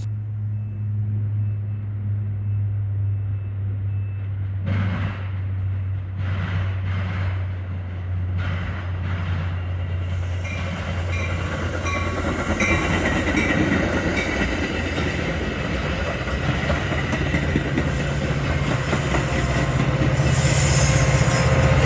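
Metra diesel commuter train: a steady low locomotive engine hum, with rail and wheel noise building and growing louder over the second half as the train moves, including thin high wheel-squeal tones.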